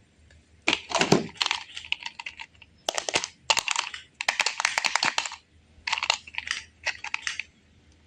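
Rapid clicking and clattering of small hard objects, in about six short bursts with brief gaps between them.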